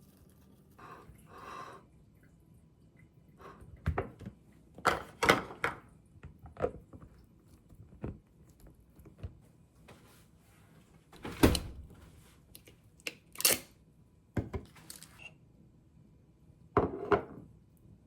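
Kitchen handling sounds: about a dozen separate knocks, taps and clatters as objects are picked up and set down, with quiet between them and a short scraping rustle near the end.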